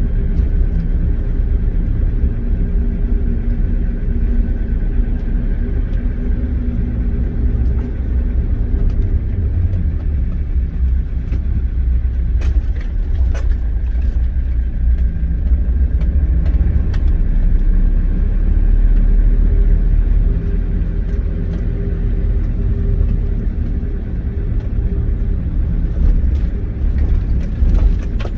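Engine of an old 1940s GMC logging truck running with a steady low rumble, its pitch shifting slightly, with scattered sharp knocks and rattles over it.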